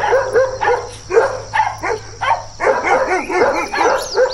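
German Shepherd barking over and over in short, quick barks. The barks come closer together in a faster run about two and a half seconds in.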